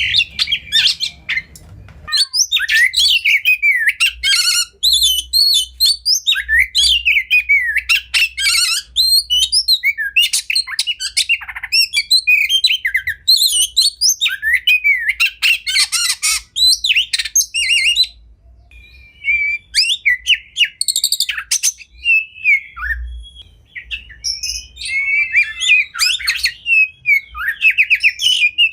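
Oriental magpie-robin (kacer) singing a fast, varied song of whistles, chirps and harsh squawk-like notes, with a short lull about two-thirds of the way through.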